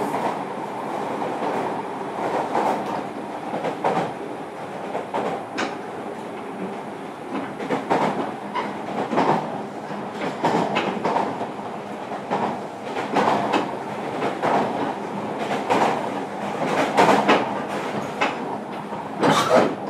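Running noise heard inside motor car MoHa 305-101 of a JR Kyushu 305 series electric train travelling at speed: a steady rumble of wheels and running gear, with frequent irregular clicks of the wheels passing over the track.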